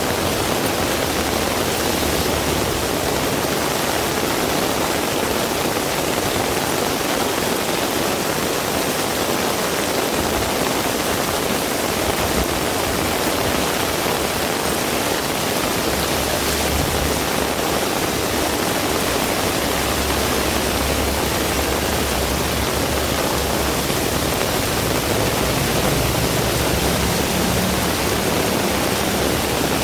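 Heavy rain pouring steadily, a dense even hiss of rainfall. A low rumble comes and goes underneath in the second half.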